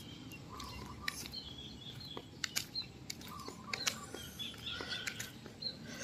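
Birds chirping in short, faint calls over a low steady background, with a few scattered light clicks.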